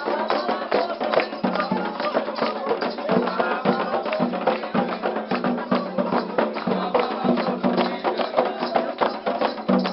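Candomblé ritual music: fast, steady hand percussion with many rapid strikes, and voices singing along.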